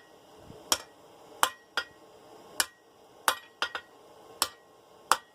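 Hand hammer striking hot half-inch round steel bar on an anvil, about nine sharp ringing blows at an uneven pace, as the drawn-out bar is cleaned up and the twist worked out of it.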